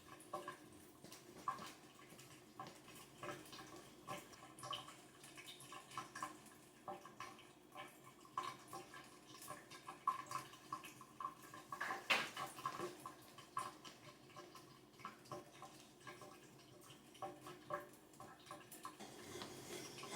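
Faint water dripping and trickling, with many small irregular clicks and knocks, while the water supply is being shut off.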